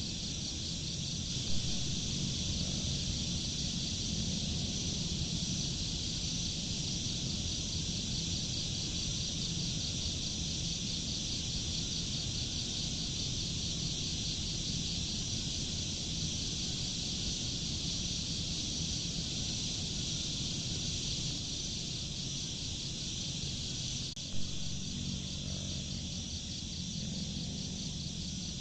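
Steady chorus of crickets trilling, a fast even pulsing high up, over a low rumbling background hiss, with two faint clicks: one near the start, one about 24 seconds in.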